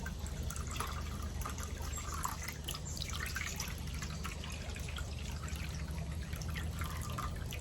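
Water trickling and dripping into the terracotta fountain's basin as it is filled, with a steady low hum underneath.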